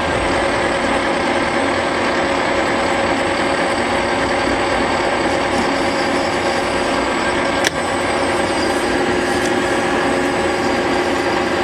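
Small metal lathe running steadily while a boring bar takes a light cut of a few thousandths inside the part, with a single short click about two-thirds of the way through.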